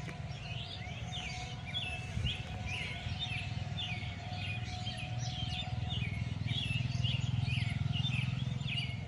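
Several birds chirping at once: a dense chorus of short, quick chirps that overlap, over a steady low rumble that grows louder in the second half.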